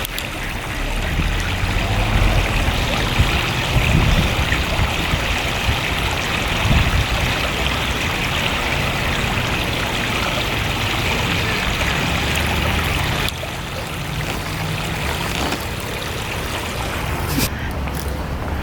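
Flowing river water: a steady rushing hiss with an uneven low rumble underneath. It drops in level suddenly about thirteen seconds in.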